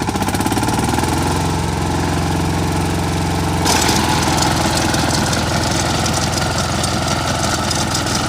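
D.K. Champion mini tractor's engine running steadily. A little under four seconds in the sound changes, and a harsher, noisier clatter joins the engine note.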